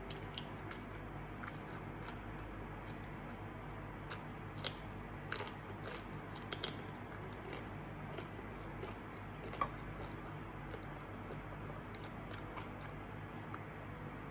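A person eating grilled pork neck salad with raw vegetables: scattered crunchy bites and chewing, the sharpest crunch about two thirds of the way through, over a steady low hum.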